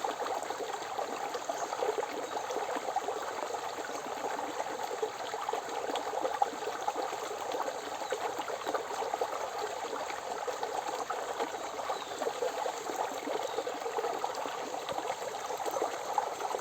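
Forest river or stream babbling and trickling over rocks, a steady, unbroken water sound.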